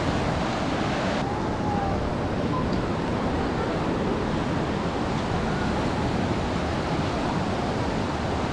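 Ocean surf washing steadily onto a sandy beach, a constant rush of breaking waves with wind on the microphone.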